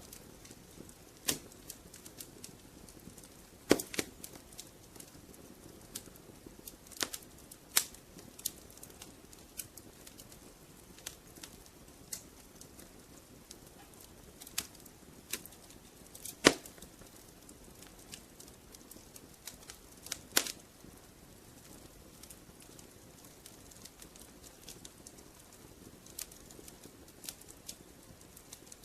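Wood fire crackling in a fireplace: irregular sharp pops and snaps over a low, steady hiss of burning. The loudest pops come at about 4, 8, 16 and 20 seconds in.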